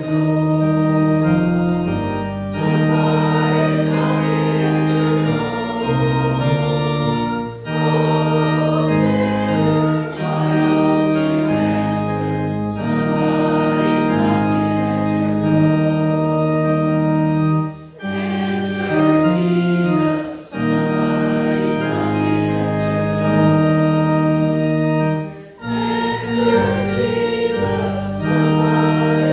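Organ playing slowly in sustained chords that change every second or two, with short breaks between phrases.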